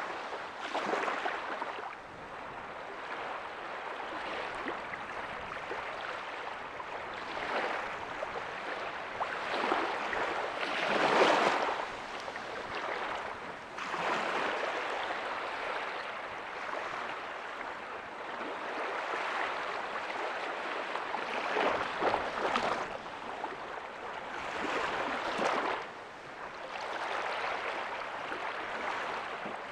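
Ocean waves breaking softly on a beach: a continuous wash of surf that swells and falls back every few seconds, with the loudest break about eleven seconds in.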